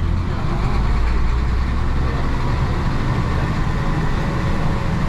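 Isuzu BXD30 bonnet bus's DA640 six-cylinder diesel engine running under way, a steady deep rumble that lightens a little about two seconds in, with road noise over it.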